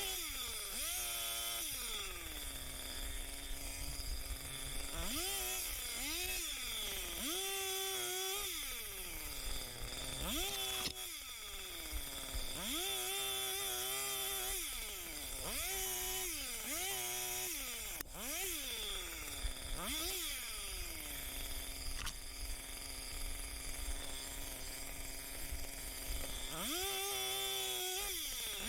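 Gas chainsaw revved again and again in short bursts of about a second, its pitch climbing and then sinking back to a steady idle between cuts, with a couple of sharp knocks.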